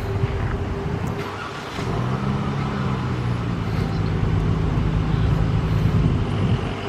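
Dodge Challenger running on its stock exhaust just after start-up. A thin steady whine is heard for the first two seconds; then the engine's steady low note comes in louder and holds.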